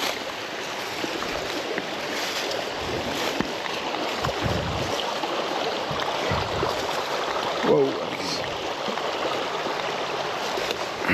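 Creek water rushing steadily, a rain-swollen mountain creek running high.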